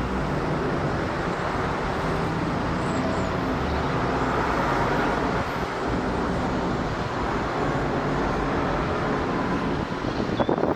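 Airbus A350's twin Rolls-Royce Trent XWB engines holding a steady jet roar as the airliner climbs out after takeoff. A brief crackle comes near the end.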